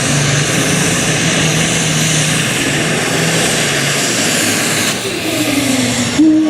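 Competition pulling tractor's engine at full power: a loud, dense roar with a strong hiss on top, its pitch falling near the end.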